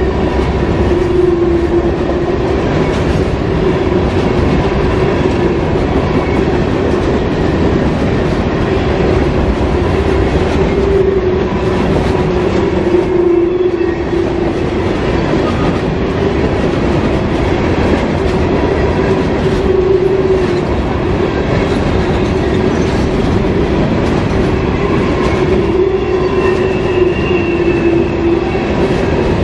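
Freight train cars rolling past close by: a steady rumble and clatter of steel wheels on the rails, with a continuous, slightly wavering hum underneath.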